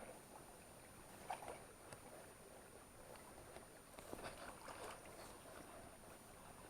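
Faint water sounds at the river, with a few soft splashes about a second in and again around four to five seconds in.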